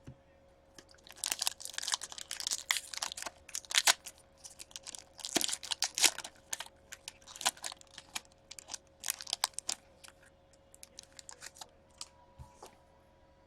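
A pack of hockey trading cards being torn open, the wrapper crinkling and crackling in quick irregular bursts that thin out near the end.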